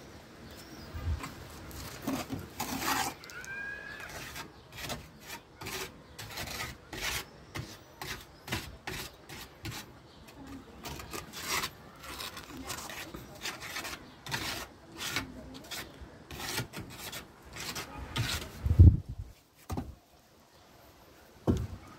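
Irregular rough scraping and rubbing strokes, one or two a second, with a heavier knock near the end.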